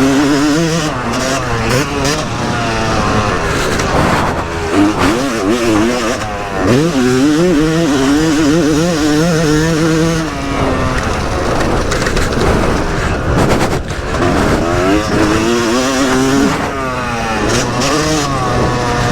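Yamaha YZ250 two-stroke motocross engine revving hard, its pitch rising and falling quickly over and over as the throttle is opened and closed. Scattered sharp knocks and a rushing noise run through it.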